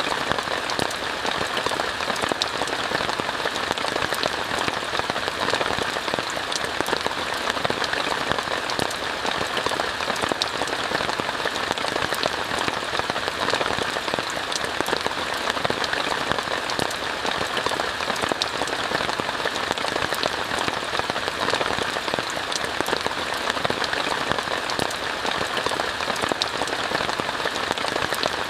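Steady rain falling on a tent, heard from inside: an even hiss packed with fine drop ticks that does not change.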